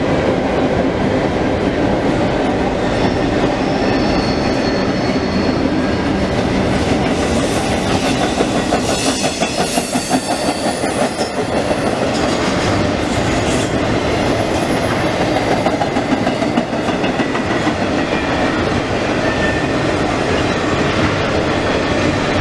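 CSX intermodal freight train cars rolling past close by: a steady, loud rumble of steel wheels on rail. There is a thin wheel squeal about four seconds in, and a quick uneven clatter of wheels over rail joints in the middle.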